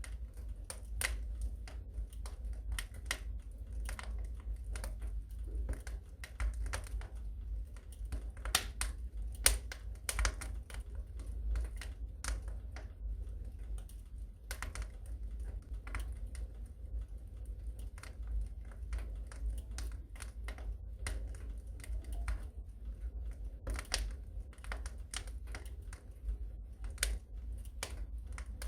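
Wood fire crackling in a fireplace: irregular sharp snaps and pops over a low steady rumble, with one louder pop about nine and a half seconds in.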